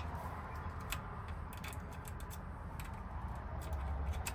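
Light, irregular metallic clicking of a lock pick and tension tool working the wafers of a Ford F-150 ignition lock cylinder, trying to turn it.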